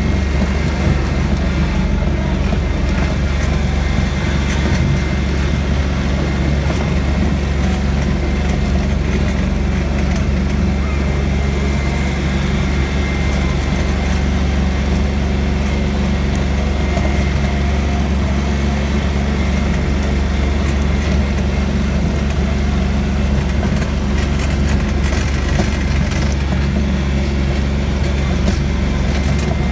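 Tractor engine running at a steady speed, a constant loud low drone.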